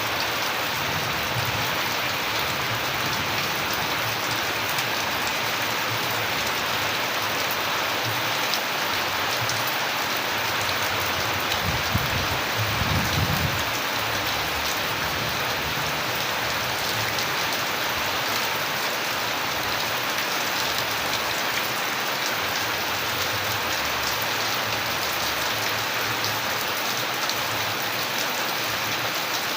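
Steady heavy rain: a dense, even hiss with scattered drop ticks. A brief low rumble swells about twelve seconds in.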